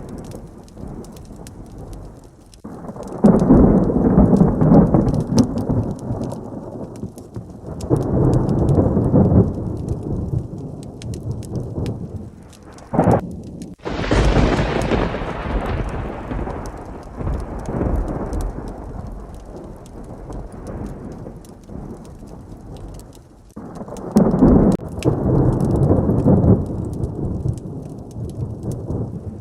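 Heavy rain during a thunderstorm, with long rolls of thunder: one a few seconds in, another around the middle that opens with a sharp crack, and a third near the end.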